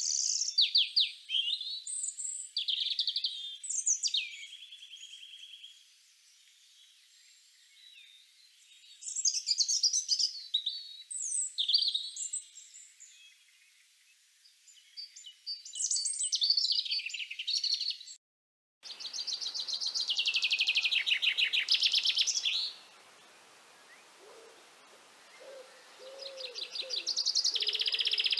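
High songbird song from two different field recordings. The first is a string of varied twittering phrases with short pauses. After a brief silent break about two-thirds of the way in, the second brings fast trilled phrases.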